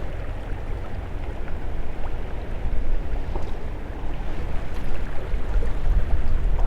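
Steady rush of a small creek's running water with wind rumbling on the microphone.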